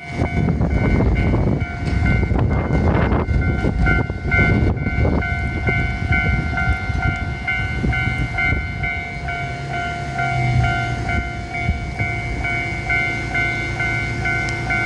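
An Enshū Railway electric train of two coupled sets passes, its wheels clattering over the rail joints, and the passing noise dies down after about five seconds. All the while a level-crossing warning bell keeps ringing, about two dings a second.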